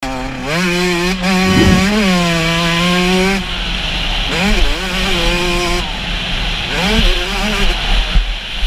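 Yamaha YZ125 two-stroke motocross engine revving high under way. Its pitch climbs about half a second in and holds steady for a few seconds, then dips and climbs again several times as the throttle is rolled off and back on.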